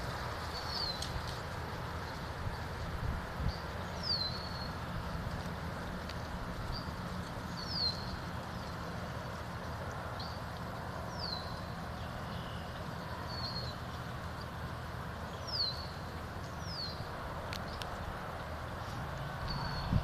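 Outdoor ambience with a steady low background rumble, over which a small bird gives a short, high, falling call every few seconds, about six times.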